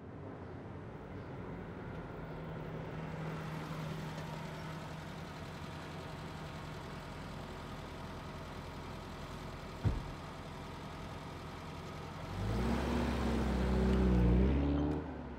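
Car engine idling steadily, with a single thump about ten seconds in. Near the end the engine revs up loudly as the car pulls away and drives close past.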